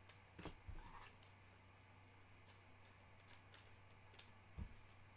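Faint clicks and taps of trading cards being handled and flipped through, with a couple of soft low thumps, over a steady low electrical hum.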